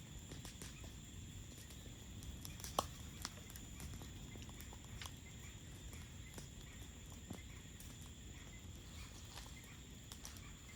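Campfire crackling with scattered small pops and one sharper pop about three seconds in, over crickets chirping steadily.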